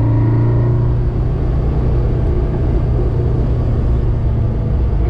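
Car engine running steadily while driving, heard from inside the cabin, with road rumble beneath it. A higher engine note fades out about a second in as the engine eases off.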